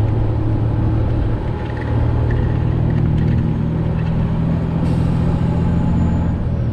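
Freightliner Classic XL semi truck's diesel engine running steadily while the truck is under way, a low, even drone.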